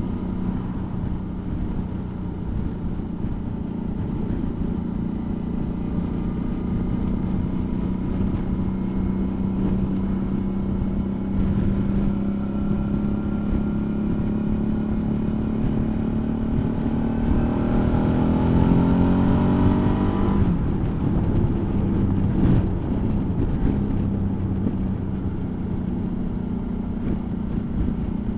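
Suzuki V-Strom motorcycle engine running at steady road speed. About two-thirds of the way through, its pitch climbs for a few seconds as it accelerates, then drops suddenly and settles back to a steady note.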